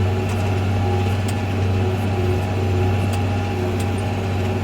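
New Holland 8970 tractor's diesel engine running steadily while pulling a disc through the field, a strong even low drone with faint scattered rattles.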